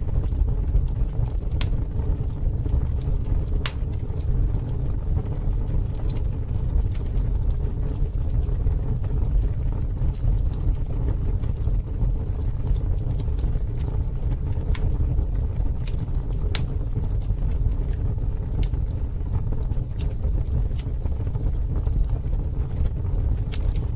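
Campfire burning, with scattered sharp crackles and pops, irregular and several a second at times, over a steady low rumble.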